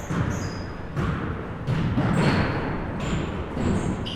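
Basketballs bouncing on a hardwood gym floor: several dull thuds a second or so apart, ringing in the large hall, with short high sneaker squeaks in between.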